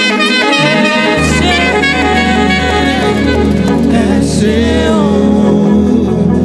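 Gospel band music with a saxophone playing the lead melody over the band; low bass notes come in about a second in.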